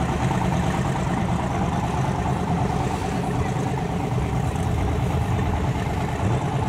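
A drag-race engine idling with a steady low rumble as the vehicle rolls slowly toward the starting line.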